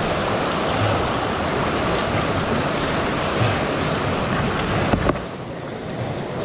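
Fast-flowing storm runoff in a creek rushing steadily, a constant wash of water noise. A sharp knock comes about five seconds in, after which the rush is quieter and duller.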